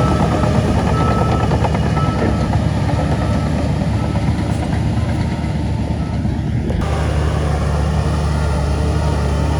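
Heavy diesel earthmoving machinery running steadily, with a vehicle's reversing beeper sounding in the first few seconds. Near the end the upper part of the sound changes abruptly.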